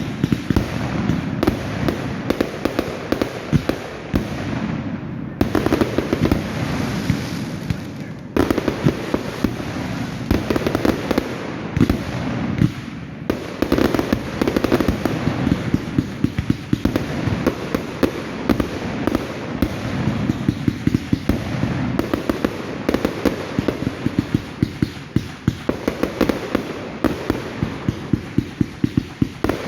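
Fireworks going off without a break: a dense run of sharp bangs and crackling pops, many each second.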